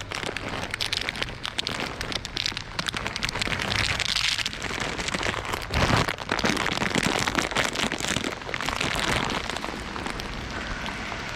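Rain pattering close by as a dense crackly noise, with a thump about six seconds in.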